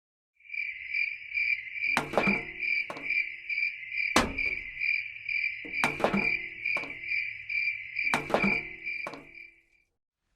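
A steady, high, insect-like trill pulsing several times a second, with a handful of sharp knocks or taps over it. It starts abruptly and stops just before the end.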